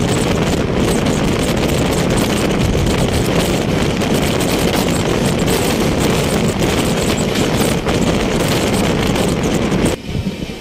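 Wind rushing over the microphone held out of a moving passenger train, over the steady rumble of the coach running on the rails. Near the end the sound drops abruptly to a quieter, plainer train running noise.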